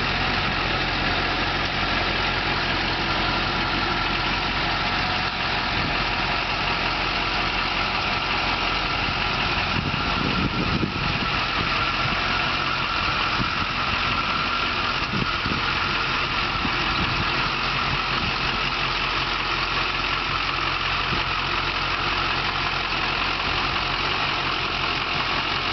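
A 6.6-litre V8 turbo diesel engine in a GMC C5500 truck idling steadily.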